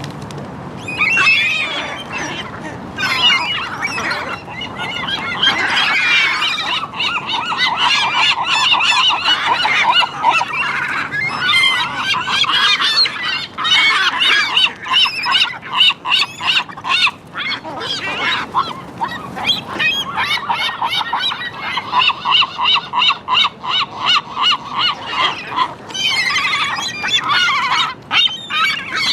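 A flock of gulls calling loudly over one another, with harsh squawks and long runs of rapid, repeated call notes.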